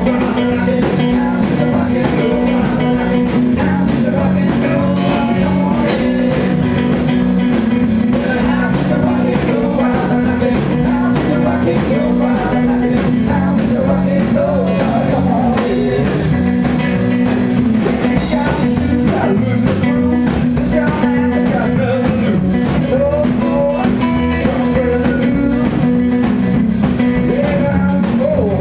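Live rock and roll band playing: guitar, drum kit and double bass, with a voice singing.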